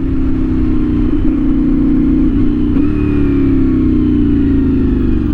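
CFMOTO 450SS parallel-twin motorcycle engine with a slip-on exhaust, running steadily under way, its pitch falling slowly over the last couple of seconds as the revs come down.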